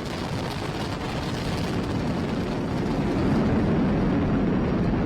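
Falcon 9 first stage's nine Merlin 1D engines at full thrust during ascent, a steady deep rocket rumble that grows a little louder about three seconds in.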